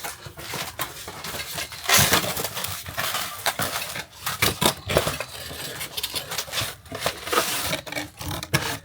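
Rustling and a run of small clicks and clinks as a new heater fan and its parts are taken out of their packaging and handled.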